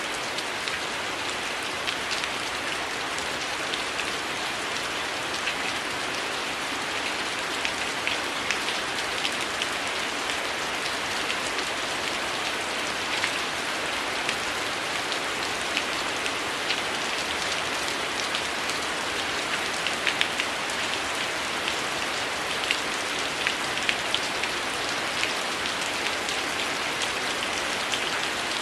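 Steady heavy rain falling on leaves and surfaces, with scattered sharp crackles and pops from a wood fire mixed in.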